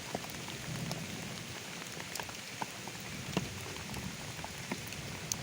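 Steady rain falling, with scattered single drops ticking through the patter.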